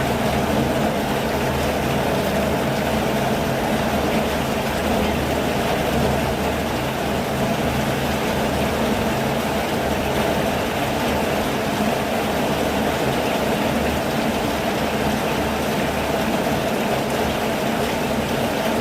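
Steady rainfall: an even, unbroken hiss with a low rumble underneath.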